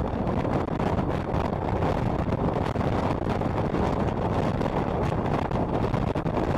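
Steady wind rush buffeting the microphone of a moving motorcycle, with road and engine noise underneath.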